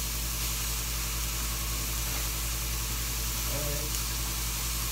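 Sliced mushrooms frying in butter and olive oil in a cast iron skillet: a steady sizzle, over a low steady hum.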